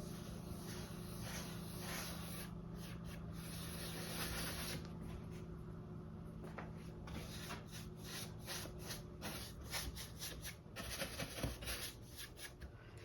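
Paintbrush bristles rubbing acrylic paint over a surface: steady scrubbing at first, then many short quick strokes and dabs through the second half.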